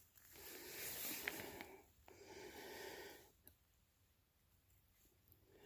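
A person breathing close to the microphone, two audible breaths in a row, then a faint click and near silence.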